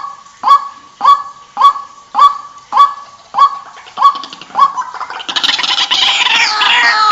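White-breasted waterhen calling: a loud note repeated about twice a second, which about five seconds in gives way to a denser, faster chatter of overlapping calls.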